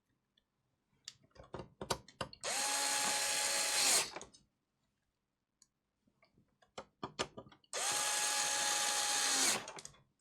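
Small electric screwdriver running in two bursts of about a second and a half each, driving screws, with clicks and taps of parts and screws being handled before each run.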